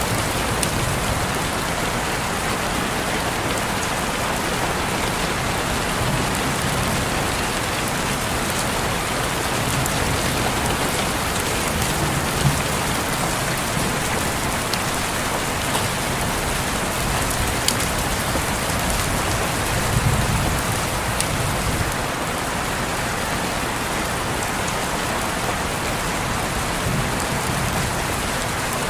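Steady rain falling on a window, a dense even hiss with scattered drop ticks and a few soft low thuds.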